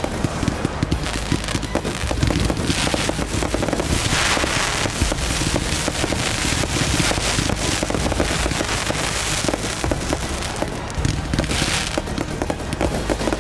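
A fireworks show firing continuously: a dense stream of crackling and popping bursts, swelling louder about four seconds in and again around eleven seconds.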